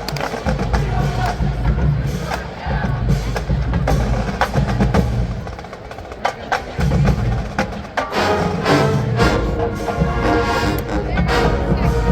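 Marching band playing a funk groove. Percussion with many sharp clicking strikes and heavy bass drum hits leads, and the brass comes in about eight seconds in.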